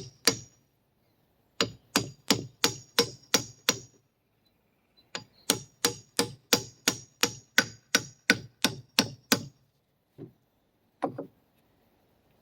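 Hammer striking a socket used as a seal driver, tapping a chilled oil seal into the Ford 1910 tractor's front axle housing: sharp metal-on-metal taps with a ringing clang, about three a second. There are two runs of blows, the second longer, then two softer knocks near the end.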